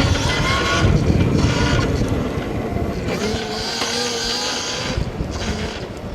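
Electric dirt bike's motor whining under the rider, its pitch rising in the first second or so, with wind buffeting the helmet-mounted microphone. The wind rumble drops off about halfway through and the whole sound eases toward the end.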